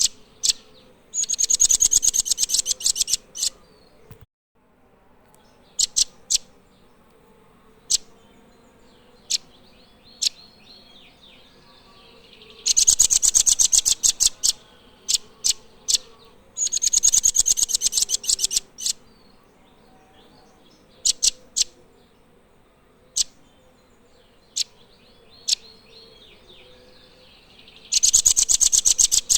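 Nuthatch song: fast, high rattling trills about two seconds long, four times, with scattered single sharp notes between them.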